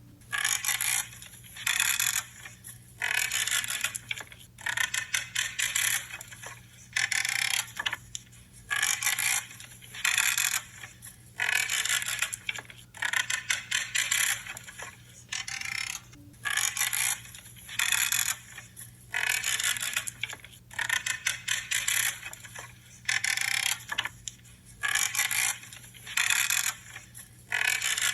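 Branches being trimmed, creaking with each cut, in a steady run of short cuts about every second and a half.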